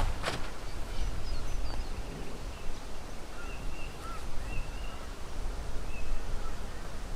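Quiet outdoor bush ambience: scattered short bird chirps over a steady low rumble.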